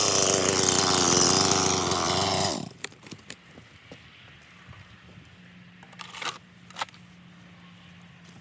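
Stihl 261 CM chainsaw's two-stroke engine idling after dropping from full revs, then shut off about two and a half seconds in. After it stops there is a faint low hum and a couple of light knocks.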